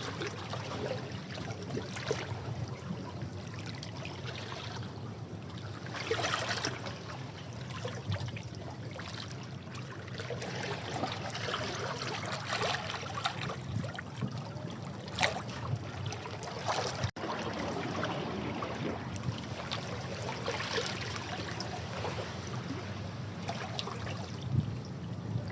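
Sea waves washing against rocks: a steady churning wash with repeated surges and splashes as waves break, and a momentary cut-out about seventeen seconds in.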